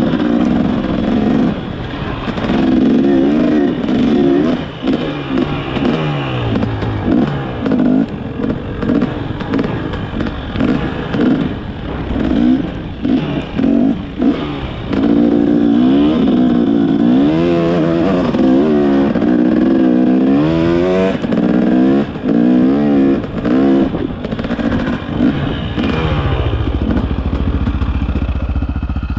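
Dirt bike engine being ridden, its pitch rising and falling again and again with the throttle and gear changes. Near the end it settles to a steadier, lower note.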